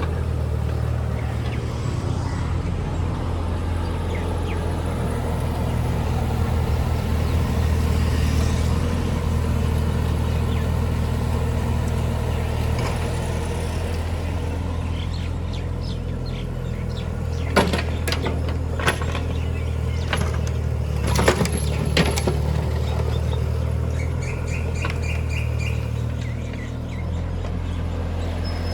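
Mini JCB's engine running steadily, with a few sharp knocks in the second half.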